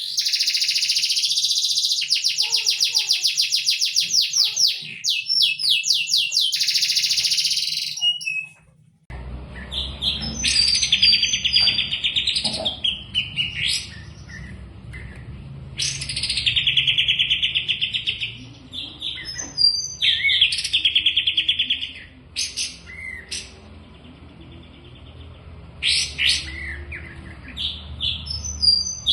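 Songbirds singing fast, high trills in repeated bursts. About nine seconds in, the song cuts to a different recording, which carries a low background noise under the trills.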